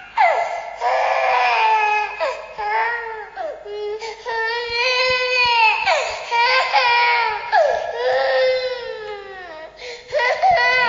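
A baby crying hard: a string of long wailing cries, each sliding down in pitch at its end, with short catches of breath between them.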